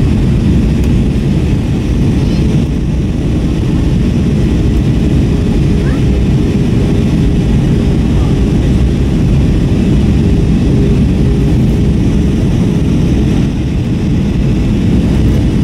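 Steady low cabin rumble inside an Airbus A321-232 in flight: engine and airflow noise, with a faint steady hum over it.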